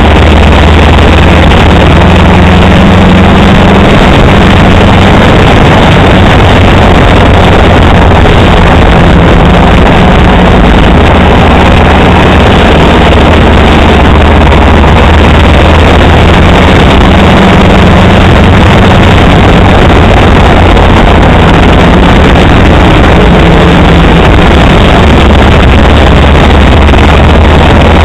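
Ford Model A Speedster's four-cylinder engine running at racing speed, heard from the open cockpit, loud and distorted, its note rising and falling every few seconds as the throttle comes on and off.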